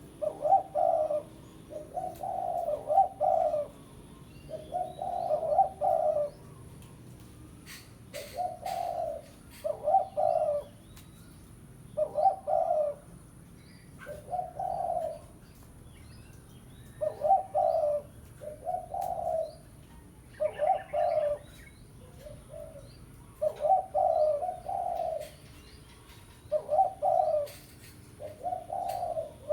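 Spotted dove cooing in short phrases of two or three notes, about one phrase every two seconds. This is the territorial call used to lure wild doves in, with faint chirps of other birds behind it.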